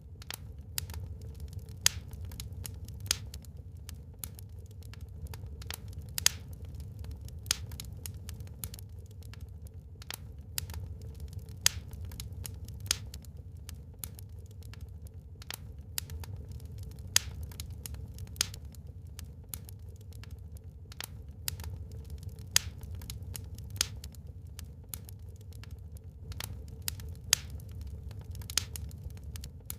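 Burning wood fire crackling: irregular sharp pops and snaps, a few much louder than the rest, over a low steady rumble.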